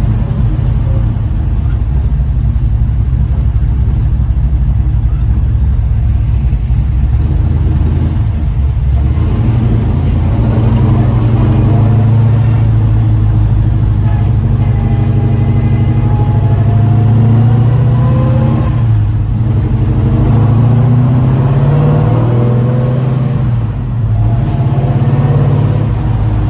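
1970 Chevelle's engine running under way, its note climbing as the car accelerates, then dropping sharply a little after halfway and again briefly near the end.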